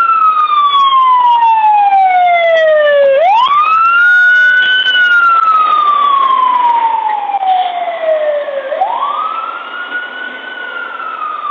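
Emergency vehicle sirens wailing. The loudest siren climbs quickly and falls slowly in long cycles of about four seconds, with fainter sirens overlapping at other pitches, and the sound gets a little quieter near the end.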